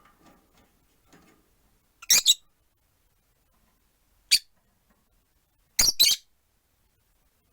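Rosy-faced lovebirds giving short, shrill calls: a pair about two seconds in, a single call a couple of seconds later, and another pair near the end.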